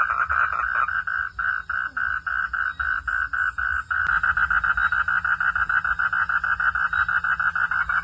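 Frogs calling in a rapid pulsed chorus: trains of short pulses about four a second, switching suddenly about halfway to a faster, denser pulse train, over a faint steady low hum.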